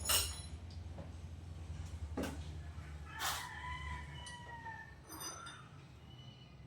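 A rooster crowing once, a single long call held for about a second and a half that falls slightly at the end, starting about three seconds in. A few light knocks come before it, over a steady low hum.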